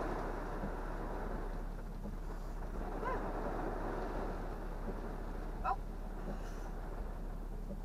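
Heavy storm rain and wind beating on a pickup truck's windshield and roof, heard from inside the cab as a steady dense rush. Two short rising squeaks cut through it, the second, about two-thirds of the way in, the louder.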